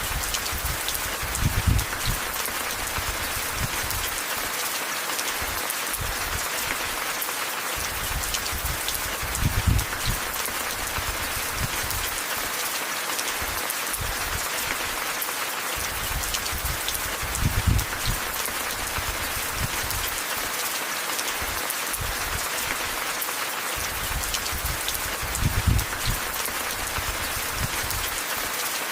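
Steady rain falling. About every eight seconds a short low rumble swells up and fades.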